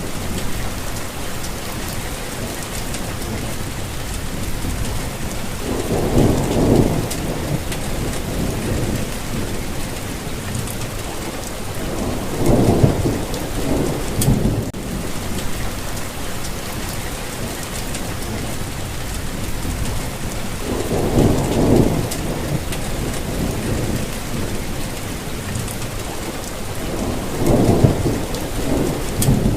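Steady rain falling. A low, swelling rumble rises and fades about every six to seven seconds, four times in all.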